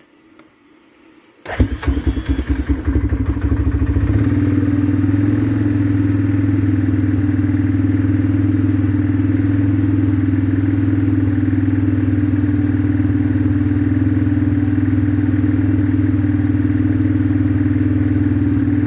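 2004 Yamaha Kodiak 450 ATV's single-cylinder four-stroke engine catching about one and a half seconds in and firing unevenly for a couple of seconds. It then settles into a steady, even run on choke, held a little above idle on the throttle while it warms up from a cold start.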